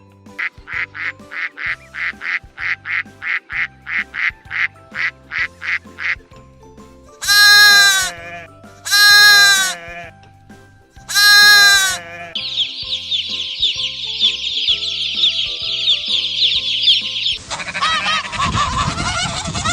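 Duck and goose calls over background music: a fast run of short quacks for about six seconds, then three loud drawn-out honks falling in pitch, then a dense chorus of many birds calling at once, with louder honking near the end.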